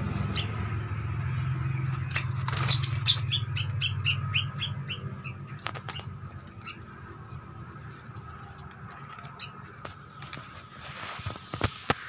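Two caged birds fighting: wings flapping and clattering against the wire cage, with a run of short, sharp, repeated chirps from about two to five seconds in.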